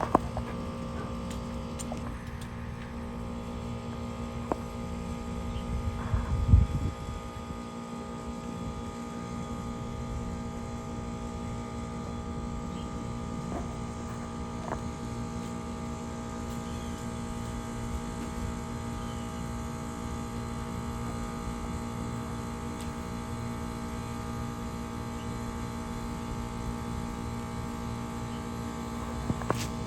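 Air conditioner outdoor condenser unit running: a steady hum over a low rumble, with a brief louder low rumble about six seconds in.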